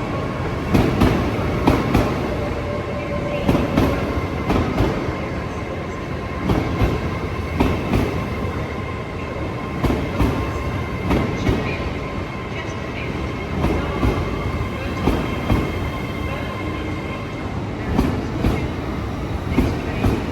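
LNER Class 801 Azuma electric train moving through the station, its wheels clacking over rail joints in pairs, again and again, over a steady rumble with a faint high whine.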